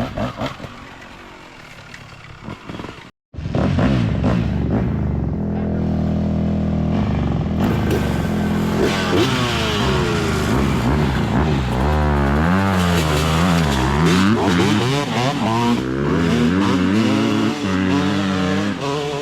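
Dirt bike engine running, its pitch rising and falling over and over as the throttle is worked. A quieter clattering stretch comes before a cut about three seconds in.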